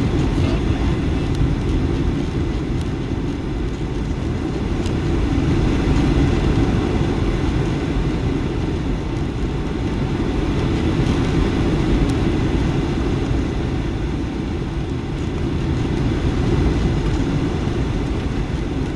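Inside the cabin of a Boeing 757-200 during landing: the engines and rushing airflow make a steady, even low rumble with no single standout event.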